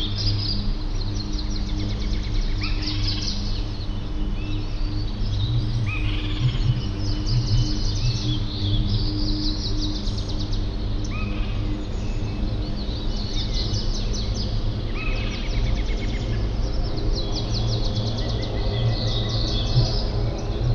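Several songbirds singing and calling: rapid trills and short rising chirps, overlapping one another, over a steady low rumble.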